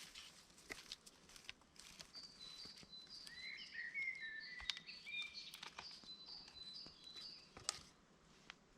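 A small songbird singing a run of quick, high notes for a few seconds, over scattered faint clicks and snaps, with one sharper click near the end.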